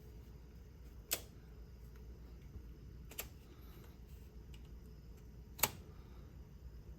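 Three sharp small clicks, about a second, three seconds and five and a half seconds in, the last the loudest, from hard plastic parts of a partly dismantled Bosch Bulldog hammer drill being handled and tried, over a faint steady low hum.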